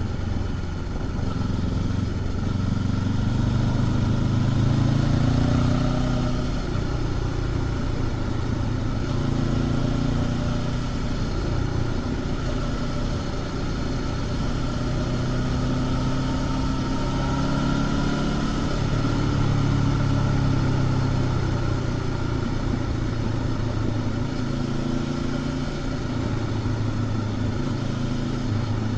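Honda CB500X's parallel-twin engine with stock exhaust, heard from the rider's position while riding, the revs rising and falling several times. It is loudest about five seconds in and again around twenty seconds in.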